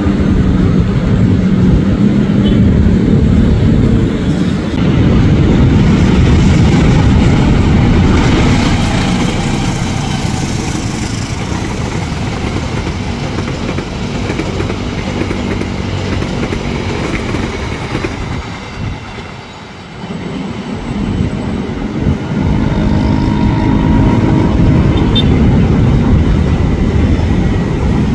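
Passenger trains running past on the line: a steady loud rumble and rattle of wheels on rail. About two-thirds of the way in it drops away briefly, then returns with a faint steady hum in it.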